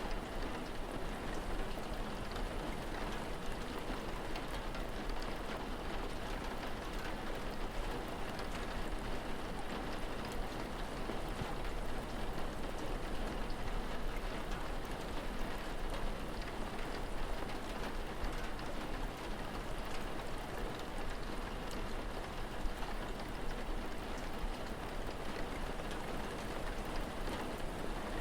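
Steady rainfall, a continuous patter of drops on surfaces with faint scattered ticks and a low rumble underneath.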